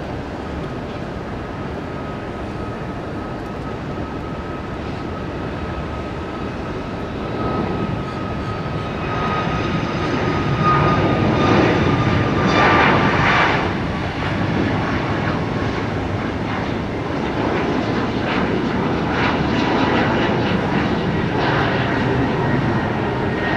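Airliner engines passing, with a steady noise and a thin whine that slowly falls in pitch. It grows louder about eight seconds in, is loudest around twelve to thirteen seconds, then eases off a little.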